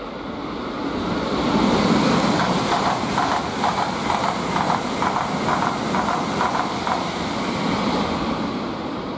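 Shinkansen bullet train passing at speed on the centre track without stopping. A rush of air and wheel noise swells to its loudest about two seconds in, with a quick, regular clicking of wheels over the rail joints in the middle, then fades as the train goes away.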